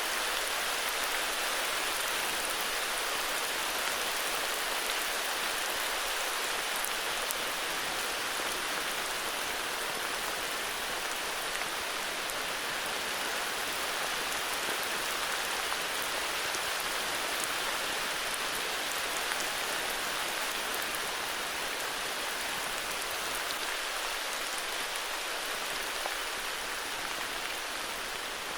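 Heavy rain falling steadily, an even, unbroken wash of drops.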